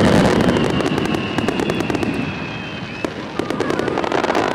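Fireworks display: a long whistle falling in pitch over the first three seconds, with dense crackling of bursting shells over a low rumble.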